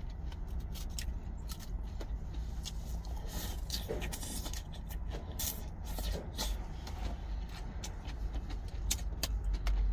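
Crisp salad greens being chewed, with repeated short clicks and scrapes of a plastic fork against a plastic salad container, over a steady low rumble.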